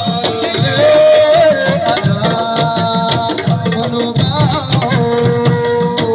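Live assiko band music: a fast, dense hand-drum rhythm under long held melody notes that bend and waver.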